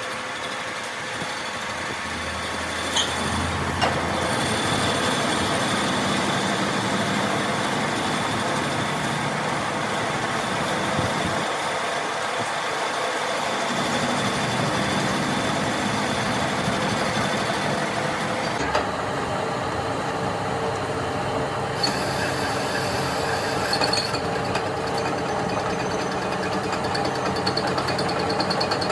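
A machine running steadily, with a few light clicks and knocks.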